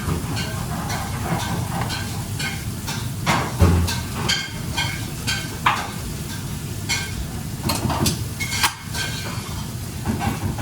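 Food sizzling in a hot pan, with irregular scrapes and clinks from a utensil stirring it.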